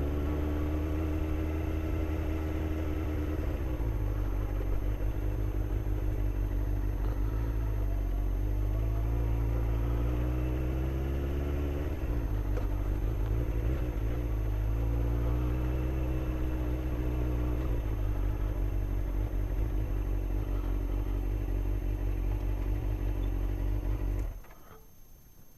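Motorcycle engine running at low speed, its pitch rising and falling a little a few times with the throttle, then switched off near the end.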